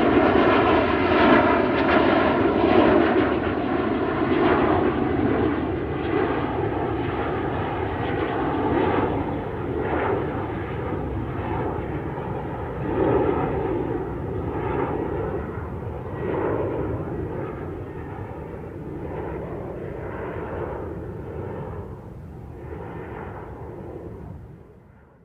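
Airliner engine and airflow noise heard inside the cabin: a steady loud rush that slowly gets quieter, then falls away at the very end.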